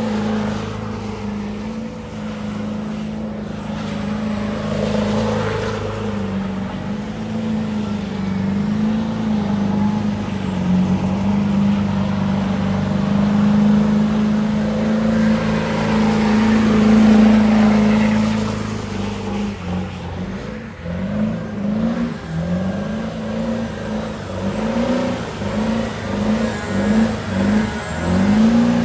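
A pickup truck's engine running at high revs during a burnout, held fairly steady for most of the time. In the last third it is revved up and down in quick pulses, about once a second.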